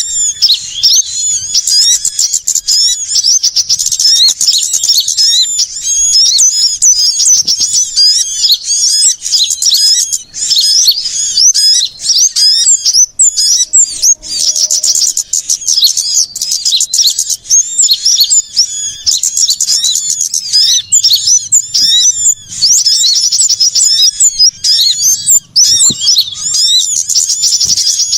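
Bird-lure recording of many small birds calling at once: a dense, unbroken chorus of fast, high-pitched chirps and twitters, noisy and excited, played to draw small birds in.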